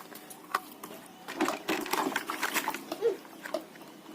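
Small plastic toys being handled: an uneven run of clicks and rattles, busiest in the middle.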